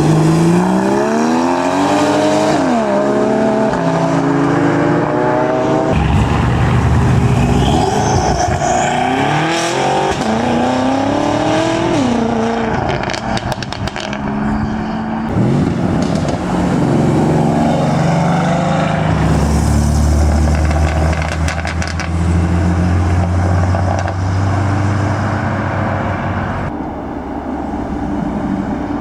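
Modified cars accelerating hard away one after another, their engines and exhausts revving up in a steeply rising pitch that drops back at each gear change. A steadier low engine drone runs through the second half.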